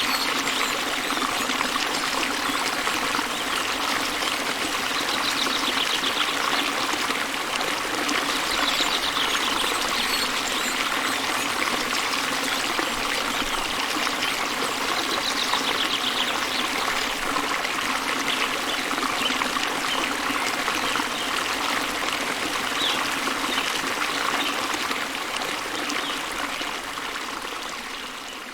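Waterfall water falling and rushing steadily, with faint bird trills a few times over it. The sound fades down near the end.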